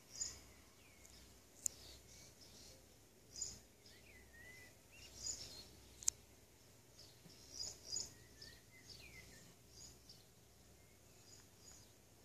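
Small birds chirping intermittently in short high calls and quick sliding notes, over a faint low hum, with two sharp clicks about two seconds and six seconds in.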